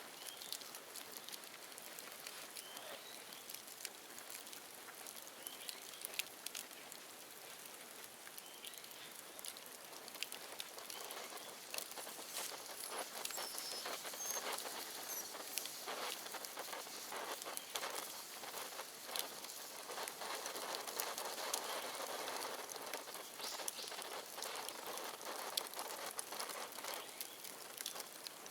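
Bonfire of dead bamboo crackling, with many small sharp pops over a steady hiss; the crackling grows denser and louder about ten seconds in.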